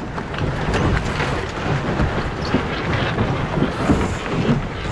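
Steady rushing noise of wind buffeting the microphone and water along the hull of an E Scow sailboat under way, with a low rumble and a few faint ticks.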